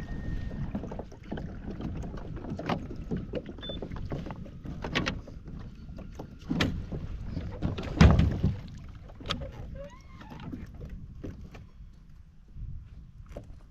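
Handling noises aboard a fishing kayak: irregular knocks and thumps against the hull over a low rumble, the loudest thump about eight seconds in.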